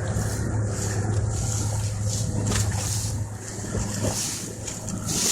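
Motorboat engine running with a steady low hum, under a hiss of wind and water and a few light knocks.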